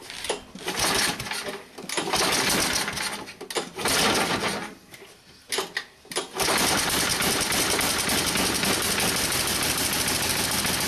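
Cold start of a John Deere 1032 snowblower engine: it is cranked in several short, uneven tries. The engine catches about six seconds in and then runs steadily with a fast, even beat.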